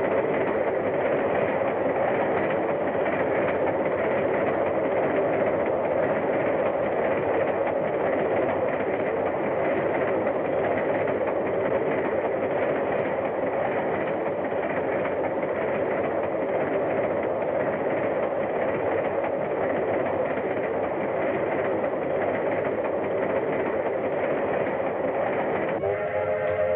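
Steam locomotive and train running at speed, a steady rolling rail noise, with the locomotive's whistle starting to blow near the end.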